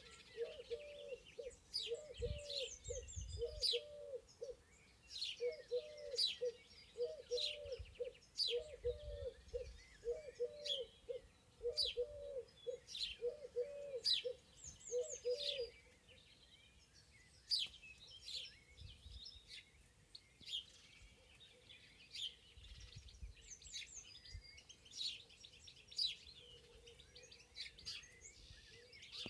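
Several songbirds chirping and singing in a spring forest, with a bird's low cooing call repeated in quick groups of short notes that stops about halfway through.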